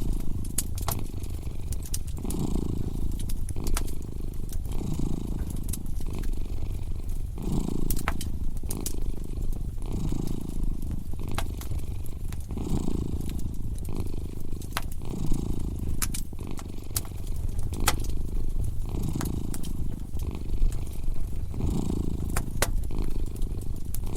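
A cat purring steadily, its low rumble swelling and easing about every two and a half seconds with its breathing, over a crackling fire with scattered sharp pops.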